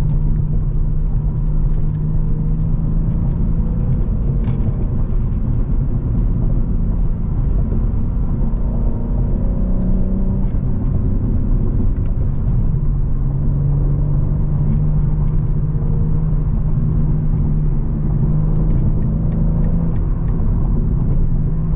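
BMW G80 M3's twin-turbo straight-six, fitted with an aftermarket single midpipe, running at a steady cruise with a constant exhaust drone and road noise. The engine note shifts briefly about halfway through, then settles again.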